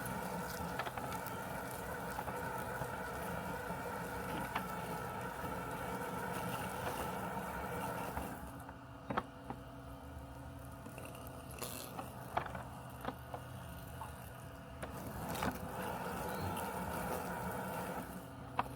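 Robotic lawn mower running with a steady mechanical hum made of several tones. About halfway through, the hum drops and thins out, with scattered clicks, then swells back for a couple of seconds and drops again near the end.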